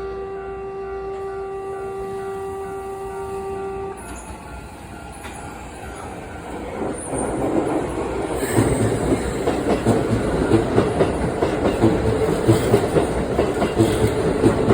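Keikyu 'Le Ciel' electric train sounding one long steady horn note that cuts off about four seconds in, then the train passing at speed, its wheels clacking over the rail joints, louder from about eight seconds on.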